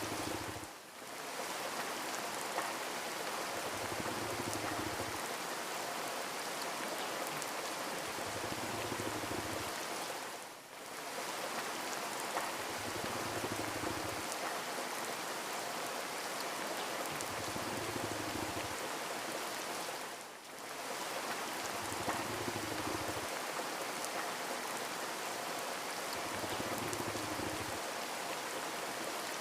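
Steady rain falling, an even hiss of drops. It dips briefly in loudness about every ten seconds, as a looped rain recording does.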